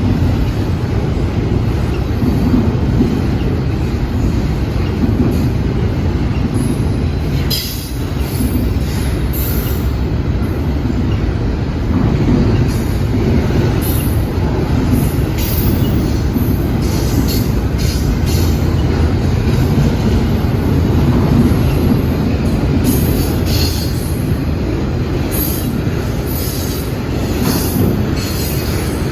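A train's cars rolling past with a steady low rumble, and short high-pitched wheel squeals that come and go.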